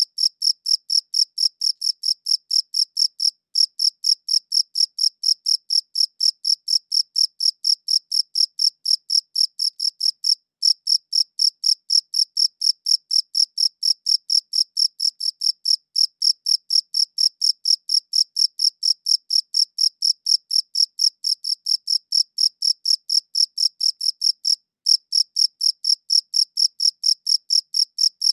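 A cricket chirping: short, high-pitched chirps in an even rhythm of about three a second, broken by a short pause a few times.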